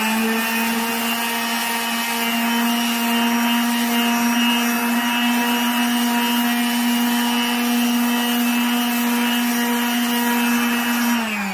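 Electric sander running steadily against the flat wooden parts of a bed, a constant high motor hum with a rough sanding rasp. Near the end it is switched off and winds down, its pitch falling.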